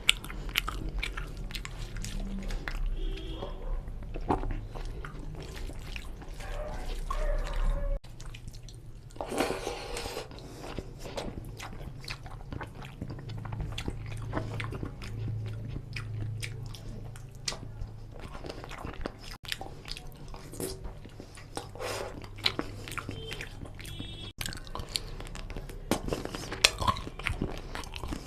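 Close-miked chewing and wet mouth sounds of rice and chicken curry being eaten, with many small irregular clicks and smacks, alongside squishing as fingers mix oily curry gravy into rice on a steel plate.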